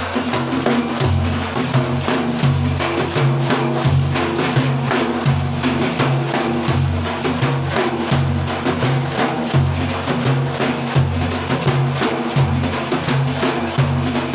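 Instrumental break in a Sufi praise song: drums beating a fast, steady rhythm over low, pulsing bass notes, with no singing.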